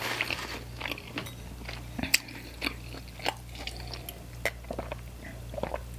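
Close-up chewing of a mouthful of pizza, with irregular crisp crunches and wet mouth clicks.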